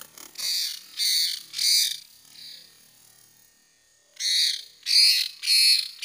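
Tilang birds giving harsh, rasping calls of about half a second each: a run of three, a pause of about two seconds, then another quick run.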